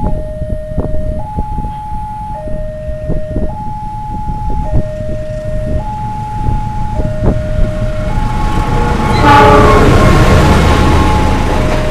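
An electronic two-tone warning alarm alternates between a low and a high note about every second. About nine seconds in, a train arrives with a sudden horn blast and the loud, steady rumble of its passing.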